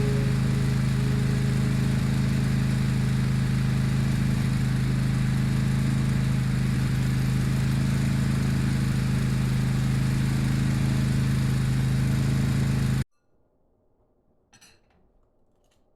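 Snowblower's small engine running steadily at an even pitch, cutting off suddenly near the end.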